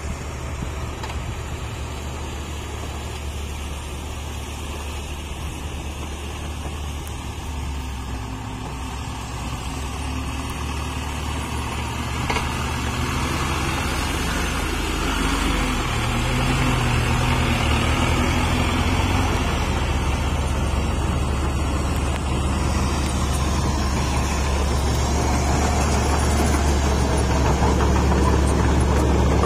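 Dump truck engine running steadily, growing louder through the second half.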